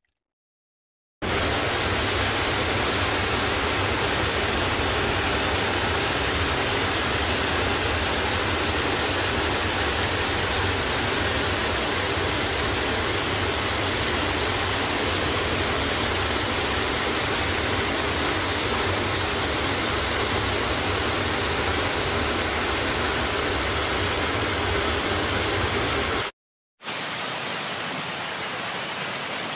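Steady, unbroken rush of falling water, like a waterfall, with a deep low rumble under it. It cuts off sharply near the end, and after a brief gap a similar but thinner water rush without the low rumble starts.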